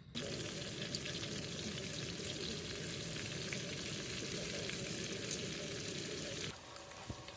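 Food frying in a hot pan: a dense, crackling sizzle that starts suddenly and drops abruptly to a quieter simmer about six and a half seconds in.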